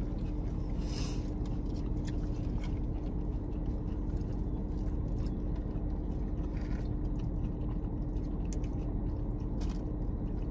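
Close-miked chewing and crunching of food, most likely tortilla chips with queso, with scattered short crunches and clicks. Underneath is a steady low hum from the car's cabin.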